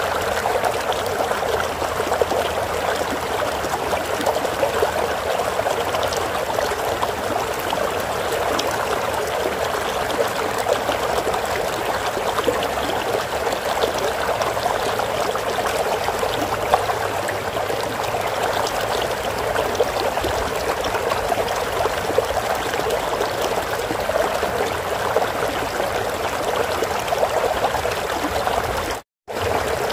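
Stream water flowing steadily over rocks, a continuous trickling rush, broken by a short drop to silence about a second before the end.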